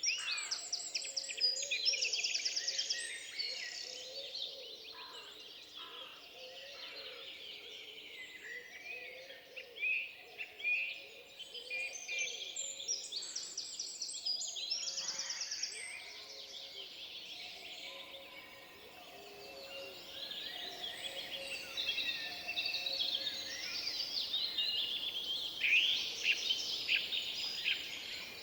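Forest birdsong: several birds singing and calling over one another, with a fast, high trill near the start and again about halfway through, and fainter lower notes underneath.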